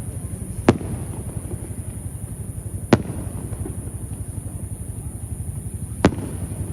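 Aerial fireworks shells bursting: three sharp bangs, about a second in, near three seconds and about six seconds in, over a steady low rumble.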